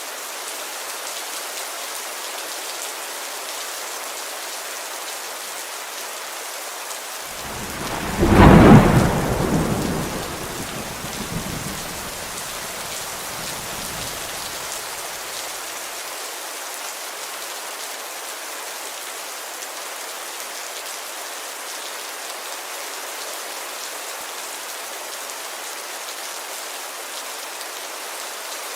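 Steady heavy rain falling on a window, with a thunderclap about eight seconds in that rumbles away over the next several seconds.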